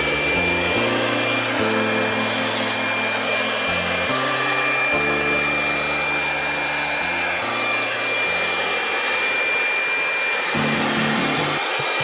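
Electric blower on a wide hose, running at full speed on an air conditioner's evaporator coil: a steady high whine over rushing air. It spins up just before and winds down right at the end.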